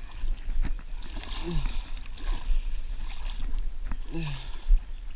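Water sloshing and splashing in repeated bursts, with wind rumbling on the microphone throughout. Two short falling grunts come about a second and a half in and again near the end.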